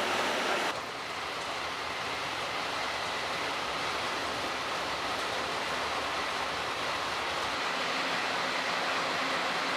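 Steady rumble and hiss of a train running on the rails, with a faint steady high whine. The sound changes abruptly, dropping a little, less than a second in.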